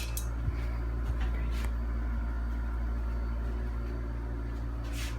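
Hunter Aker ceiling fan's motor running on medium speed: a steady hum, with a higher tone joining in about half a second in.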